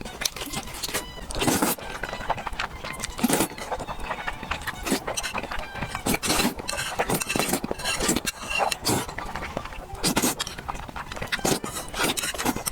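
Close-miked noodle eating: irregular wet slurps and chewing, a few louder slurps standing out.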